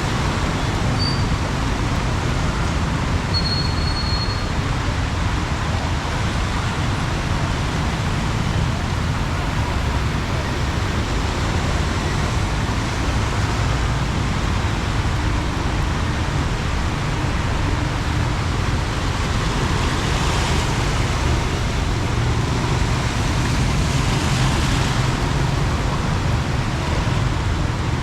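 Heavy rain falling steadily, mixed with the low rumble of road traffic, with two louder swells of noise in the latter part as vehicles pass.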